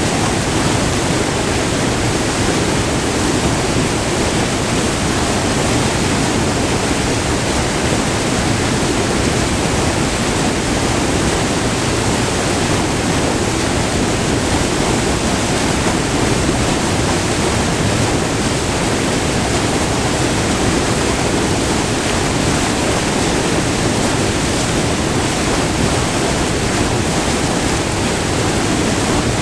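Steady rush of white water pouring over a short, multi-tiered waterfall, recorded up close.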